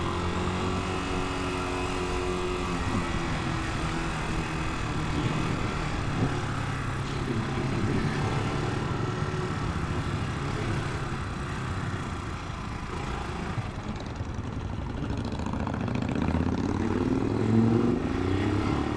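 Italika 250 motorcycle engine running while riding in traffic, with a steady engine note and road noise. Near the end the engine pitch rises several times as the bike accelerates.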